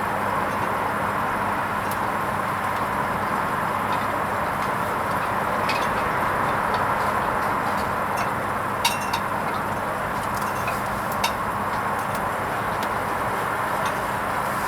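Hoover Vision HVP16 washing machine running a wool rinse programme: a steady whooshing hiss with a faint low hum, broken by a few small clicks.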